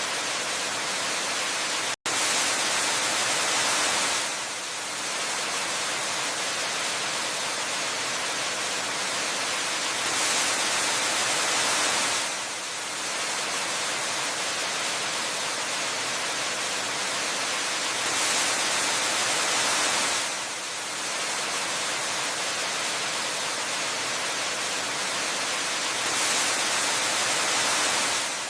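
Waterfall: a steady rush of falling water with little bass, swelling slightly about every eight seconds. It cuts out for an instant about two seconds in.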